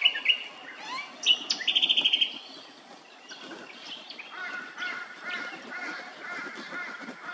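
Birds calling: a few sharp notes at the start, a loud fast run of notes about a second and a half in, then a repeated looping phrase through the second half.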